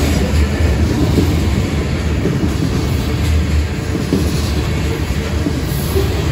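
Freight train's covered hopper cars rolling past close by: a steady low rumble of steel wheels on the rails, with a few clicks over the rail joints.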